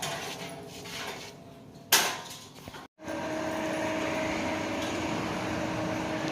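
A sharp metallic clank with a short ring about two seconds in, then, after an abrupt cut, a steady mechanical hum with a low drone.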